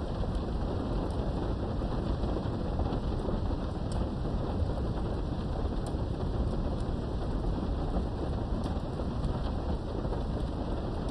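Steady rain heard from behind a window, with a low continuous thunderstorm rumble and scattered faint drop ticks.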